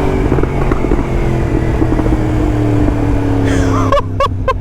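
Yamaha MT-10's crossplane inline-four, breathing through a full titanium Akrapovic race exhaust, pulls along on the road with its note slowly falling. Near the end the throttle closes and the exhaust lets out a quick run of sharp pops: overrun backfires from the open, untuned system.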